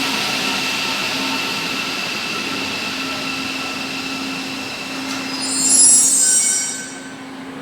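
Rubber-tyred metro train moving through the station with a steady electric motor whine. About five seconds in, a loud high-pitched squeal rises and fades within two seconds, and then the train noise drops away.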